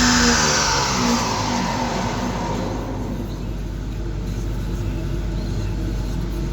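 Citroën DS3 1.2 turbo three-cylinder engine coming off high revs: the pitch falls steadily over about two and a half seconds as the engine winds down after a full-throttle pull, then it settles to a steady low idle.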